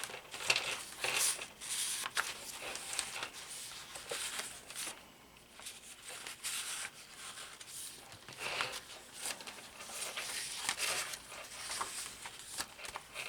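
Paper rustling and crinkling as the pages, tags and inserts of a handmade paper journal are turned and handled, with soft scattered clicks and rustles.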